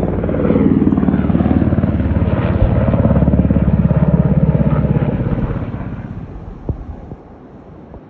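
Helicopter passing low, its rotor chop loud for about five seconds, then fading away as it moves off.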